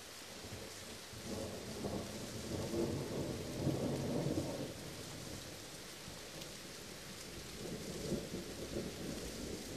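Steady rain hissing, with thunder rolling in about a second in, rumbling for a few seconds and fading by the middle. A second, weaker roll of thunder comes near the end.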